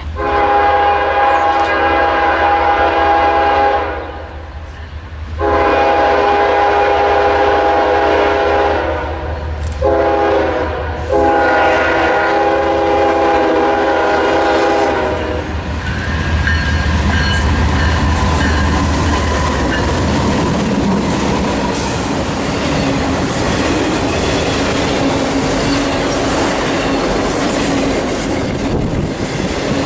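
Diesel locomotive air horn, several notes sounding together, blowing the grade-crossing signal: long, long, short, long. Then the train passes with a steady rumble and wheels clicking over the rail joints.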